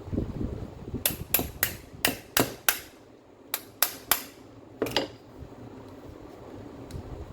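Hammer taps, ten sharp strikes in all: six in quick succession, a short pause, three more, then a single last one.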